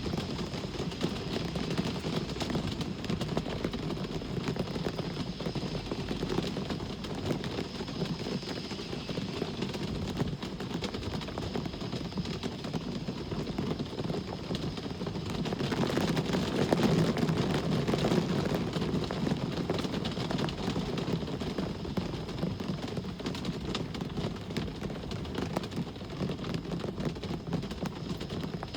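Rain falling steadily in a pattering hiss over the low rumble of road traffic; a vehicle passes about halfway through, swelling louder for a few seconds before fading back.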